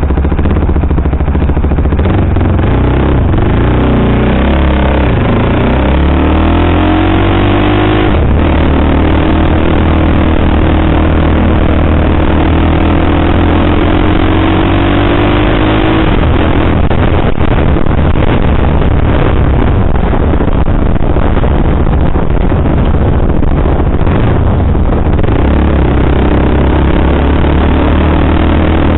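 KTM sportbike engine with a Powertronic ECU pulling under load while riding: its pitch climbs, drops suddenly about eight seconds in as the next gear goes in, then climbs slowly again. A rush of noise covers the engine from the middle of the stretch until near the end.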